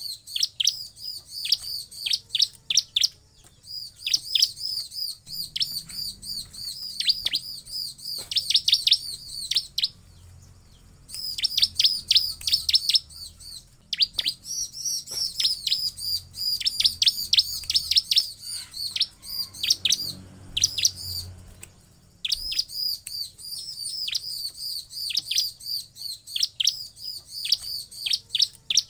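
Bar-winged prinia (ciblek) singing: quick runs of high, sharp, repeated chirps, several a second, in bouts of a few seconds broken by brief pauses.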